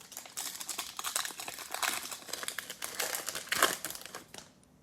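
Foil trading-card pack wrapper crinkling and crackling as it is handled, a dense run of crackles for about four seconds that dies away near the end.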